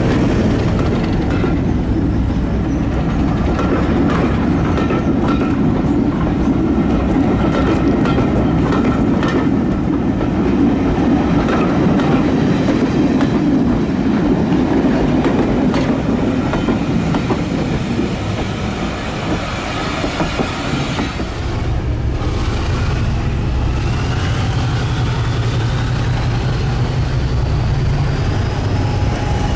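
Diesel train passing at close range, its wheels clickety-clacking over the rail joints. About twenty seconds in this gives way to a steady low engine drone, with a whine that rises in pitch over several seconds.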